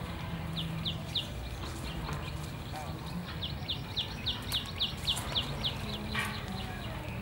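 A bird calling in rapid series of short, high, descending chirps, about three to four a second: a brief run near the start and a longer one from about three to six seconds in. Under it is a steady low outdoor hum.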